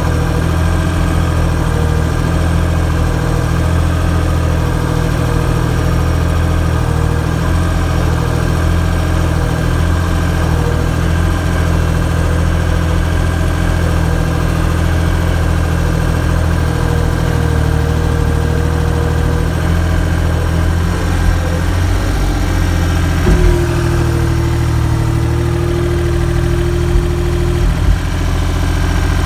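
Engine running steadily at a constant speed. A steady higher whine joins it for about four seconds near the end.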